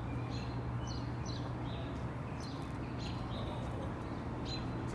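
Small birds chirping: short, high, falling chirps repeated irregularly. A steady low hum underneath.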